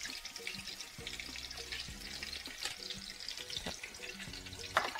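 Chili paste (bumbu) frying in hot oil in a wok: a steady sizzle with small pops. A short clack near the end.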